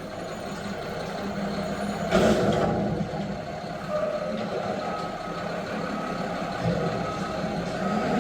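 Front-loader garbage truck running, with a short loud air hiss about two seconds in, typical of an air brake. In the second half its reversing alarm beeps in a steady series of short tones.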